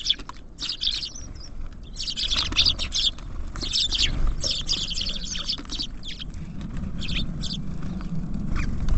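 Small songbirds chirping in quick runs of short, high calls, with a few brief pauses.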